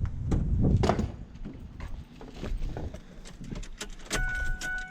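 Keys jangling and clicking as someone handles them getting into a Ford F-150 pickup. About four seconds in, the truck's steady electronic warning chime starts, the key-in or door-open chime that sounds just before the engine is started.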